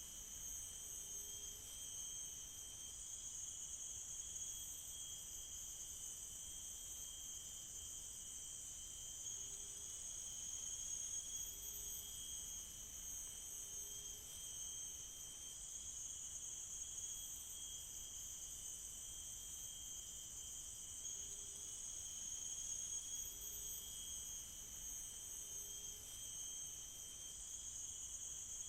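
Steady chorus of tropical rainforest insects, a continuous high-pitched drone at several pitches at once. A faint, short, low call repeats every couple of seconds underneath.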